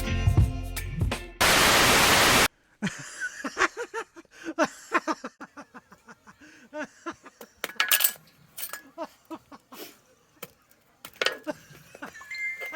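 Background music ends about a second in, followed by about a second of loud hiss. Then come scattered light clicks and clinks, several a second, irregular.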